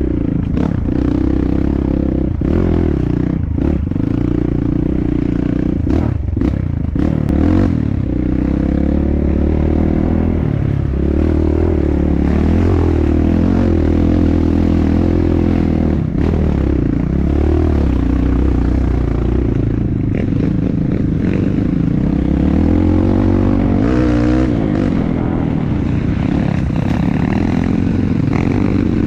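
Dirt bike engine running under load on a trail, its pitch rising and falling as the throttle is worked, with knocks and rattles from the bike over rough ground, a cluster of them a few seconds in.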